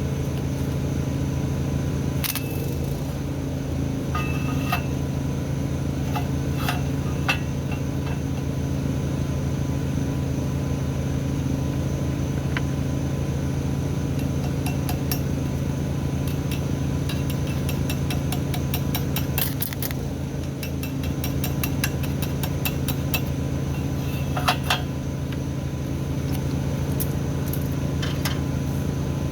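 A steady machine drone, engine-like, with scattered sharp metallic clicks and clinks, which come thicker about halfway through.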